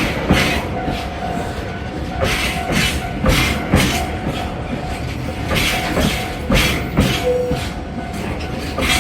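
Kintetsu electric train passing, its wheels clacking over rail joints in repeated pairs of knocks over a steady rumble.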